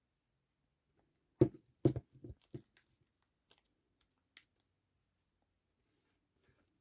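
Several sharp knocks on a tabletop in quick succession about a second and a half in, as craft tools or materials are set down or pressed during paper crafting, followed by a few faint clicks and light paper rustles.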